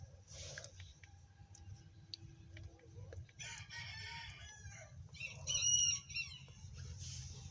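A rooster crowing: a fainter rough call about three and a half seconds in, then a louder, wavering call about five seconds in.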